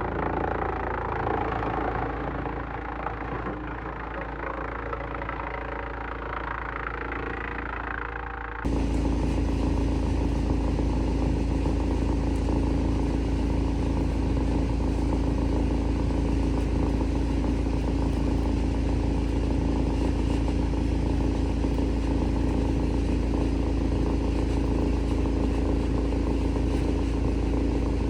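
Heavy-duty industrial wood chipper running with a steady machine drone. About nine seconds in the sound changes abruptly, from a rougher, quieter mix to a louder, even drone with a strong low hum.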